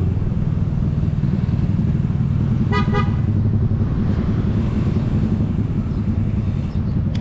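Steady low rumble of wind and road traffic while cycling, with a brief vehicle horn toot about three seconds in.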